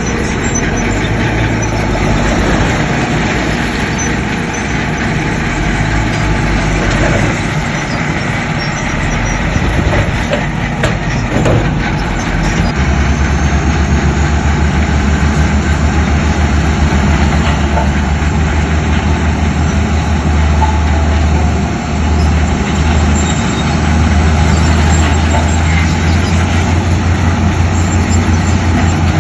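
Heavy diesel earthmoving machinery working, with a constant mechanical din. About halfway through, a louder, deeper engine drone with a fast pulse comes in close by and stays to the end.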